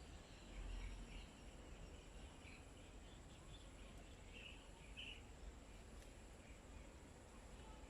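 Faint, scattered short bird chirps, two slightly louder ones about four and five seconds in, over quiet outdoor background noise with a steady high-pitched whine.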